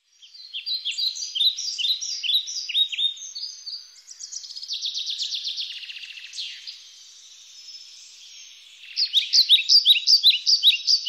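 Songbirds chirping and trilling, quick high notes, many of them sweeping downward. The song thins out in the middle and comes back dense and louder at about nine seconds.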